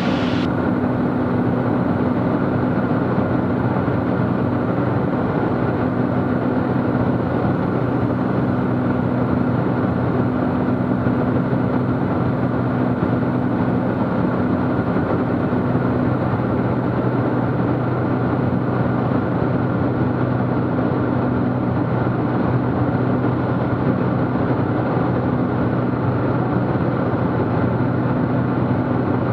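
Cessna T210's turbocharged six-cylinder engine and propeller droning steadily in cruise, heard inside the cabin, with an even low hum and no change in power.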